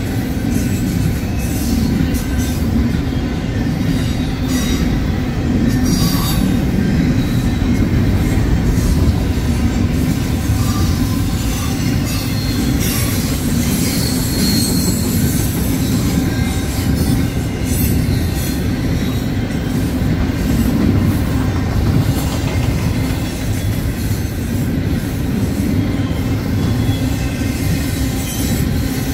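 Double-stack intermodal container cars rolling past close by: a steady rumble of steel wheels on the rails.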